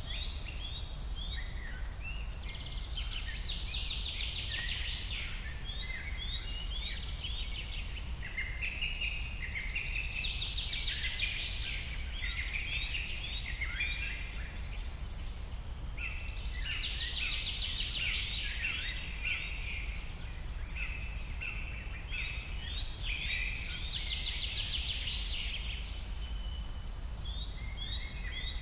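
Several songbirds chirping and singing in bouts that come every few seconds, over a steady low rumble of background noise.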